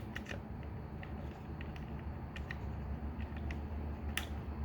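Light plastic clicks and handling of the Transformers Masterpiece MP-30 Ratchet figure's face parts as one piece is pulled off and another plugged in. The clicks are faint and scattered, with the sharpest about four seconds in, over a steady low hum.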